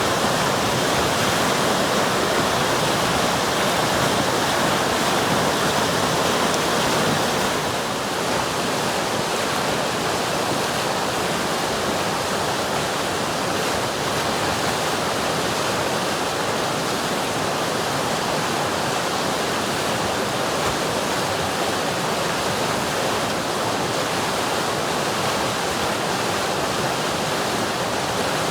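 River water flowing, a steady rushing hiss that eases slightly about seven seconds in.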